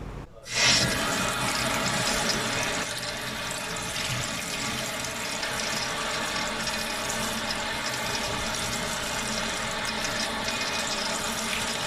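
Water running steadily from a tap into a sink, starting abruptly about half a second in.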